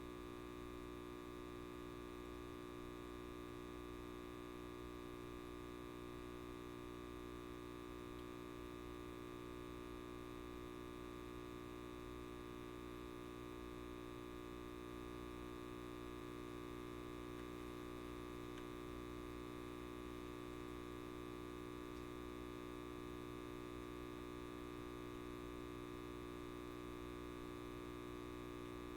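Light bulb buzzing with a steady electrical hum, a constant tone with many overtones that does not change.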